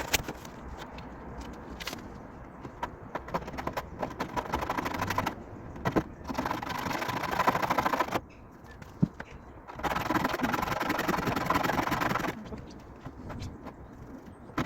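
Abrasive scraping on a car's steel body panel as rust and old filler are stripped off, in several spells of one to two seconds with short pauses between them.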